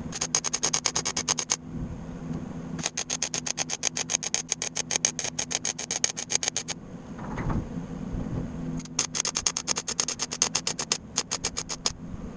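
A tool clicking rapidly and evenly, about a dozen strokes a second, in runs of one to four seconds with short pauses, over a steady low hum.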